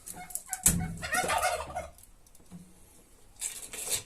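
A domestic turkey gobbling once, a quick warbling call lasting about a second. Near the end comes a short, high clinking rattle of broken window glass being handled.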